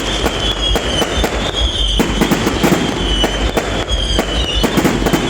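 Aerial fireworks bursting in rapid, irregular bangs and crackles, over a continuous high wavering whistle.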